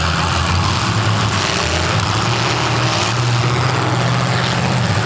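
Demolition derby cars' V8 engines running loud under load, the engine pitch stepping up and down every second or so as the drivers rev.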